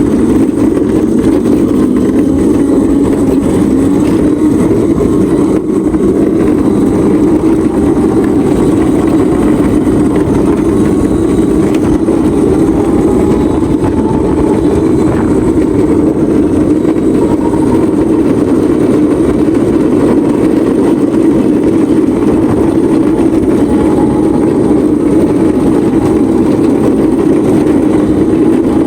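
Small ride-on vehicle being driven: a steady loud rumble of motor and ride noise, with a faint whine that rises and falls in pitch.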